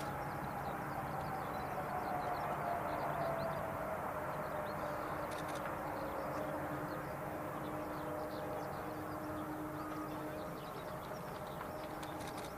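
Jet engines of a Boeing 777-200ER: a steady whine sliding down in pitch over the first half, over a low rumble and hum.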